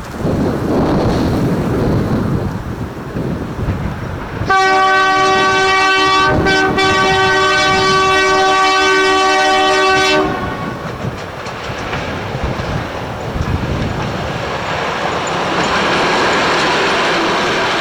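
Alco diesel locomotive horn sounding one long, loud blast of about five and a half seconds: a chord of several tones, with a brief break near the start. Before it the locomotive rumbles along with some clickety-clack. After the horn cuts off, the rumble gives way to a rushing noise that swells near the end.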